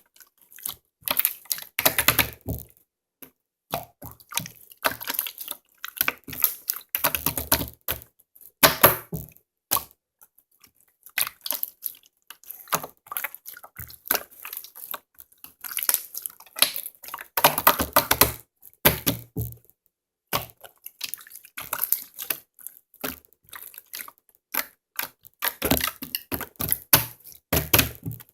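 Slime being squished and pressed by hand, making rapid wet clicks and pops that come in bouts of about a second with short pauses between.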